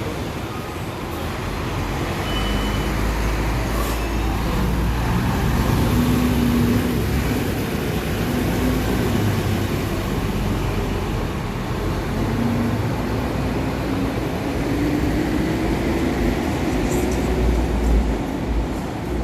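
Road traffic with buses and cars running and passing: a steady deep engine rumble, with one engine's pitch rising steadily near the end as it pulls away.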